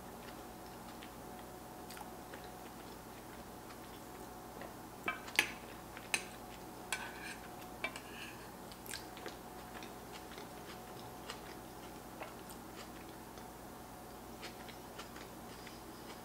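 Close-up chewing of a mouthful of baked mac and cheese, with soft wet mouth smacks and clicks, and a metal fork scraping and clinking in an enameled cast iron pan as the next bite is scooped. The sharpest clicks bunch up between about five and nine seconds in, over a faint steady hum.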